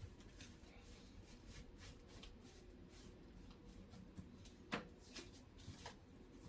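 Quiet kitchen handling sounds: faint rustling and light taps, with one sharper click about three-quarters of the way through and a couple of softer ones after it.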